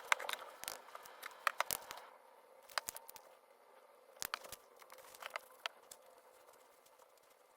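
Irregular small clicks and taps, bunched in the first couple of seconds and again a few seconds later, over a faint steady hum.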